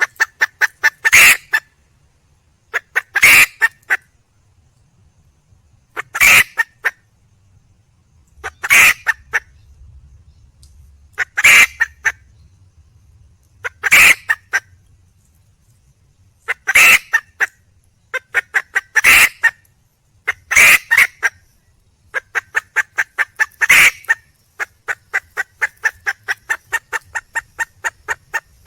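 Junglefowl hen calling for a mate: runs of quick clucks, each building to a louder burst of notes, repeating every two to three seconds. Near the end comes a longer even run of clucks.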